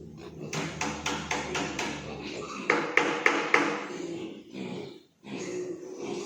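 Metal being struck: a run of quick knocks, about five a second, then four loud ringing metallic strikes about a third of a second apart. The sound breaks off briefly a little after five seconds in.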